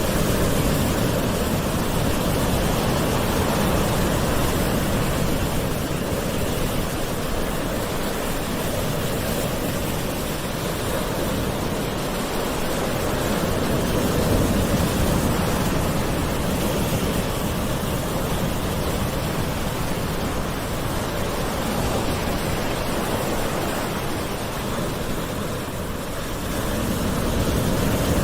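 Gentle ocean waves washing on a shore as a steady surf hiss that swells and eases slowly every several seconds.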